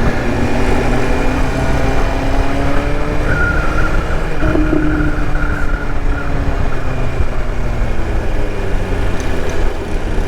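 BMW S1000RR's inline-four engine running at low speed in traffic, its pitch slowly sinking and rising as the throttle changes, over a steady low rumble of road and traffic noise.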